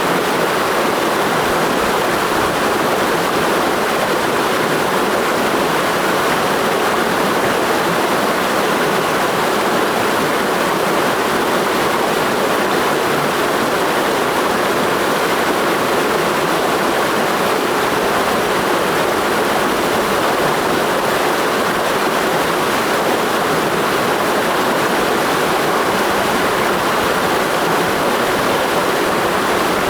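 Clear mountain stream flowing steadily, a constant rush of water with no change in level.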